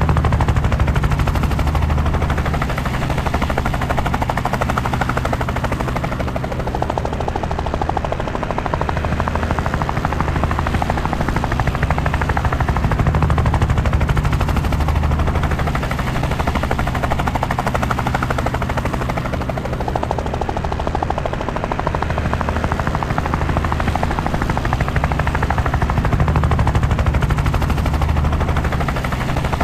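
Helicopter in flight, heard from aboard: a rapid chop from the rotor blades over a low drone. It swells and eases gently every six to seven seconds.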